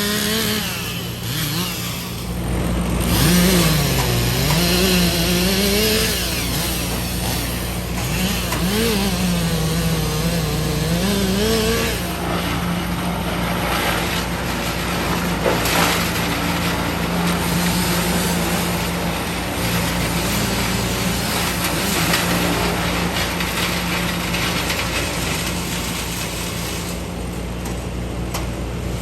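Engines of tree-removal machinery running: one revs up and down repeatedly for the first dozen seconds, then holds a steady pitch, over the low steady drone of a second engine.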